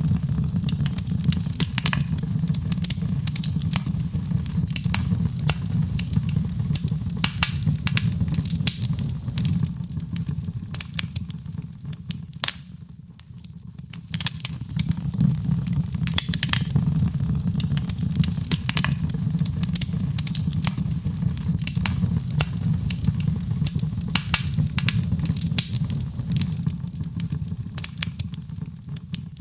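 Wood fire in a fireplace crackling and popping, many sharp snaps over a steady low rumble of burning, with a short quieter lull about halfway through.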